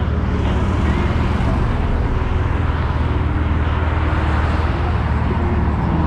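Honda Gold Wing motorcycle under way: a steady engine drone mixed with rushing wind and road noise.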